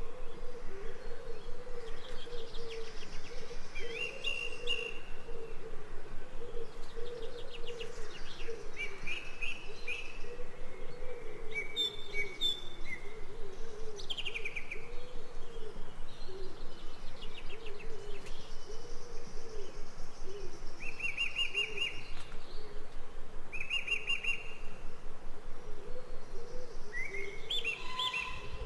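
Forest birds chirping and trilling at intervals, over a continuous low warbling sound that pulses rapidly and evenly.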